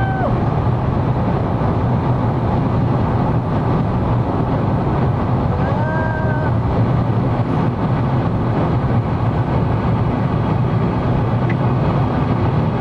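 Pace car running flat out on the speedway at about 125 mph, heard from inside the cabin: a steady, loud roar of engine, tyres and wind. A passenger's whoop ends right at the start, and a short cry comes about six seconds in.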